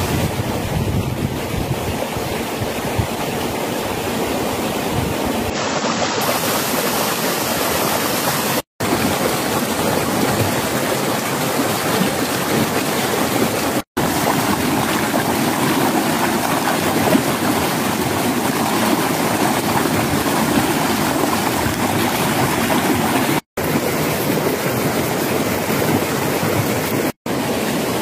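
Steady rushing water of a stream or waterfall, broken by four brief dropouts.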